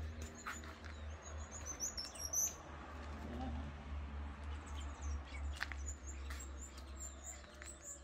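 Small birds chirping in short, high notes, busiest about two seconds in and then scattered, over a low steady rumble.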